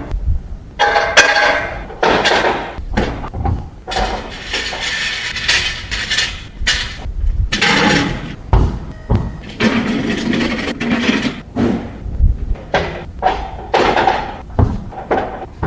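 Loud, irregular clattering and knocking of hard objects being handled, with many sharp hits and no steady rhythm.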